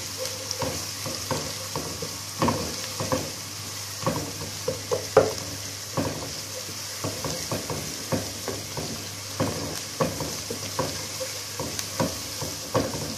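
Chopped onion, garlic and ginger sizzling in hot oil in a nonstick pot, with a steady hiss, while a wooden spatula stirs them, making irregular scrapes and taps against the pot.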